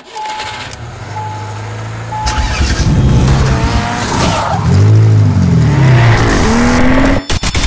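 Sound-designed car intro: three short beeps about a second apart, then a race-car engine revving up and down, ending in a quick run of sharp clicks.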